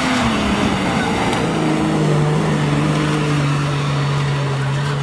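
Jeep Cherokee XJ's engine running at high revs under load as the 4x4 climbs a steep dirt hill; the pitch wavers at first, then holds a steady drone from about a second and a half in.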